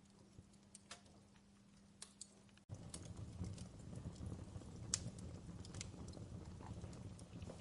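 Faint fireplace crackling: a few sparse pops at first, then about three seconds in it switches abruptly to a louder, denser crackle of small clicks over a low rumble.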